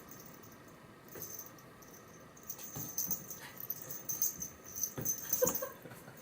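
A kitten scampering after a laser dot: soft paw thumps and claw scratches on the floor, coming in a busy run through the middle and latter part.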